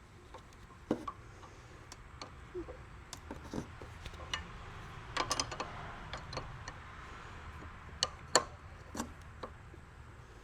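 Irregular metallic clicks and taps of a small wrench on a bicycle pedal as the pedal is threaded onto the crank arm, with the loudest pair of clicks near the end.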